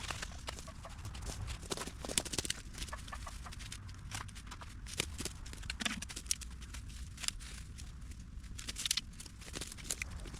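Irregular clicks, crackles and knocks of litter being picked up and stuffed into a trash bag, over a steady low rumble.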